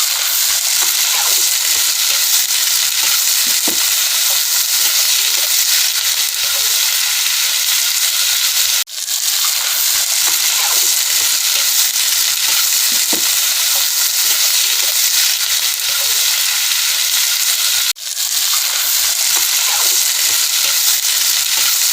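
Chicken curry sizzling loudly as it fries in its spiced masala with only a little water, while being stirred to mix in the chicken masala. A steady dense sizzle, broken sharply for a moment twice.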